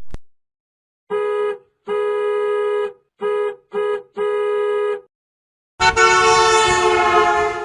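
Horn honking in a rhythm: five toots of uneven length (short, long, short, short, long), then one longer, louder blast near the end.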